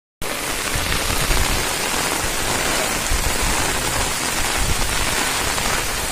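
Heavy rain falling on a flooded street, with floodwater flowing across it: a loud, steady, dense hiss.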